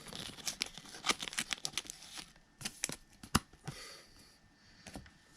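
Baseball trading cards and their pack wrapper being handled: crackly crinkling and small clicks, busy for the first two seconds, with a few sharper clicks a little after, then sparser and fainter.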